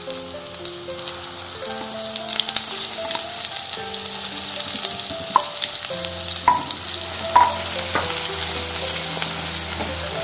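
Ground masala paste sizzling in hot oil in a steel kadhai. There are a few sharp metallic clinks about halfway through as the paste is scraped in from a steel bowl, and near the end it is stirred with a wooden spatula. Soft background music plays underneath.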